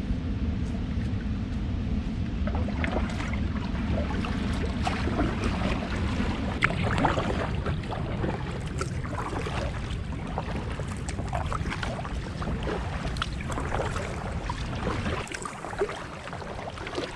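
Kayak paddle strokes, the blades splashing irregularly in the water as an inflatable kayak moves off. A steady low rumble underneath stops suddenly near the end.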